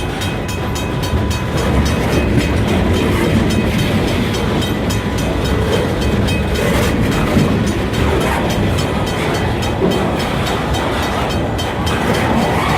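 Freight train rolling past close by: a loud, steady rumble of wheels on the rails.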